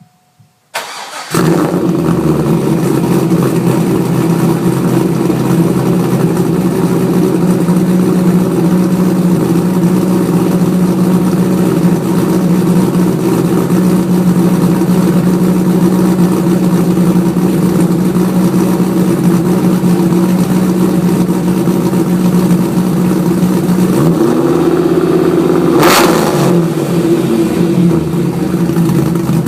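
Chevrolet Corvette C5 Z06's LS6 V8 through a Borla exhaust starting up about a second in, then idling steadily and loudly. Near the end the engine is briefly revved and settles back to idle.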